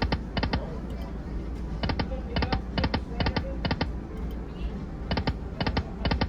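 Lightning Link Moon Race slot machine clicking as its reels spin and stop: short clicks in quick pairs, about two pairs a second, with a gap about four seconds in, over casino background noise.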